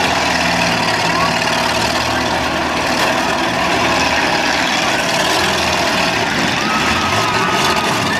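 Several demolition derby cars' engines running together, loud and steady, over a dense background din.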